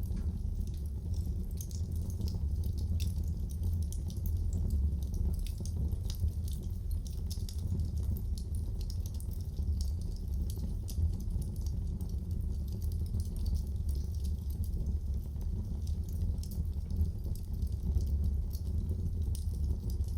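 Wood fire burning in a fireplace: a steady low rush of flame with frequent small, sharp crackles and pops scattered throughout.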